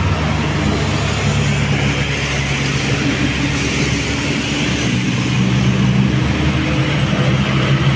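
Heavy road vehicles climbing a steep hill, their engines running steadily under load, with the pitch stepping up or down slightly a few times, over road and traffic noise.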